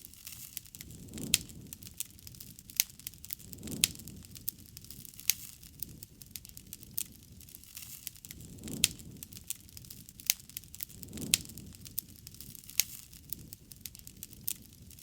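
Campfire of burning wood crackling, with sharp pops and snaps several times a second and a soft low rush swelling now and then.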